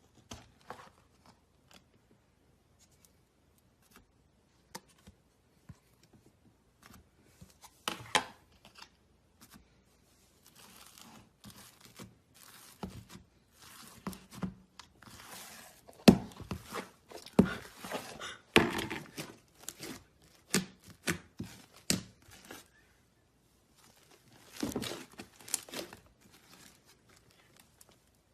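Homemade slime being squished, stretched and pulled apart by hand, giving irregular sticky crackles and tearing sounds. They are sparse at first and come thicker and louder about halfway through.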